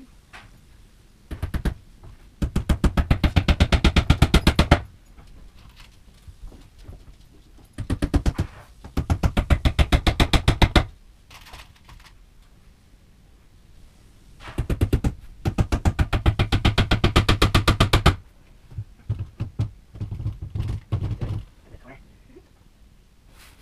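Rapid runs of knocking on wood while a bookcase is nailed together, about a dozen sharp strikes a second. The strikes come in three main bursts of two to three seconds each, with a shorter, looser run near the end.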